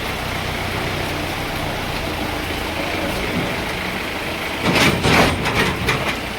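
A motor vehicle engine running steadily, with a short, loud, hissing burst about five seconds in.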